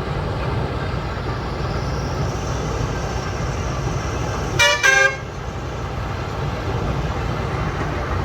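Farm machinery diesel engine running steadily, with a vehicle horn sounding two short toots about halfway through.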